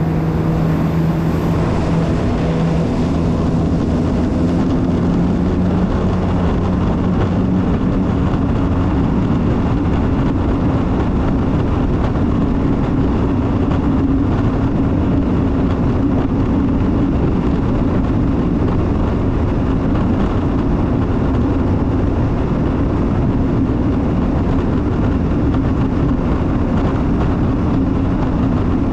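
Jet ski engine running steadily at speed over a constant rushing noise. Its pitch shifts a little in the first few seconds, then holds.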